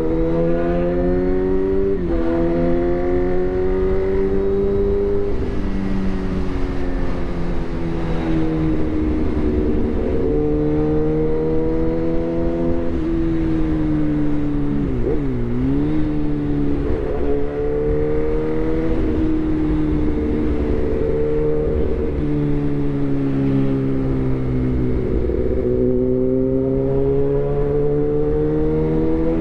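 Suzuki GSX-R1000 inline-four through a replica SC-Project exhaust, running under way. Its pitch climbs and falls over a few seconds at a time, with sudden drops as it shifts gear.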